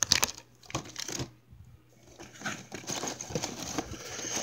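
Packaging being handled as a die-cast model airliner is pulled from its box: a few sharp clicks and knocks, a short pause, then steady rustling and scraping of the box and its insert.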